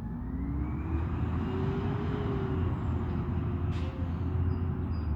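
Garbage truck's diesel engine revving up over about two seconds and holding at the higher speed over a deep rumble, with a brief hiss about four seconds in.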